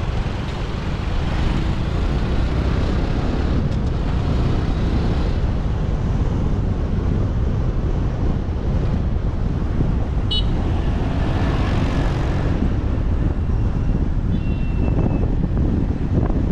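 City traffic heard from a moving motorbike: a steady low rumble of engines, tyres and wind. A short high horn toot sounds about ten seconds in, and a thin high tone near the end.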